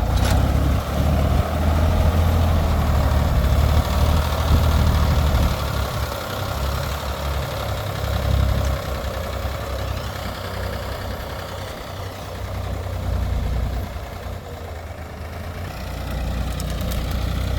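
Sonalika tractor's diesel engine running with a deep, steady rumble while ploughing a field. It swells and eases off, quieter about six and again about fifteen seconds in, then builds again near the end.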